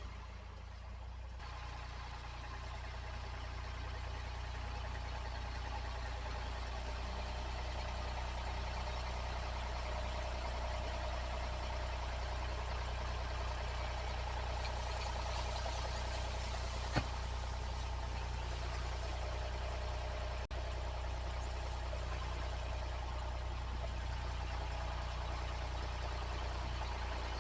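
Tractor engine running steadily with a deep, even hum, growing slightly louder over the first several seconds, with a single sharp click partway through.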